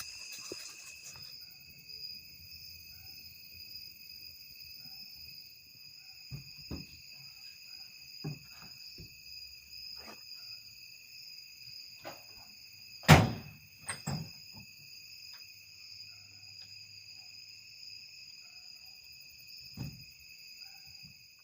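Night insects keep up a steady chorus of high, continuous trills at several pitches. Scattered soft knocks and rustles come through it, and one sharp thump about two-thirds of the way in is the loudest sound.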